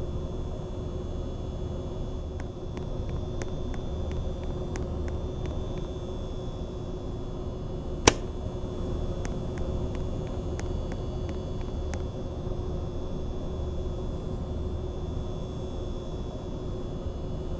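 Mistral ceiling fan running: a steady motor hum over a low rush of air. Faint ticks come and go, and one sharp click sounds about eight seconds in.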